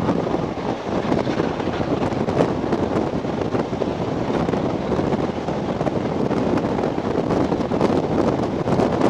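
Wind buffeting the microphone held out of a carriage window of a moving steam-hauled train, over the steady rushing noise of the train running.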